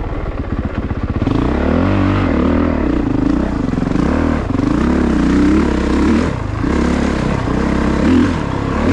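2022 Honda CRF450RX's single-cylinder four-stroke engine revving up and down again and again under the rider's throttle, with a brief drop about six and a half seconds in.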